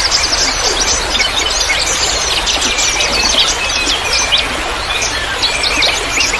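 A dense chorus of small songbirds chirping and trilling rapidly, many calls overlapping, over a steady hiss of trickling water.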